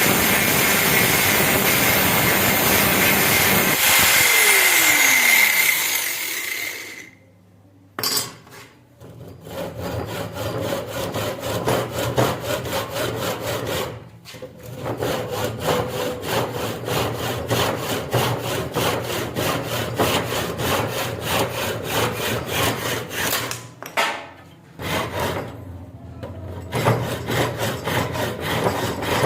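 A power tool running and then spinning down, its pitch falling, followed after a pause by long runs of rhythmic back-and-forth rasping strokes of a hand tool, with two short breaks.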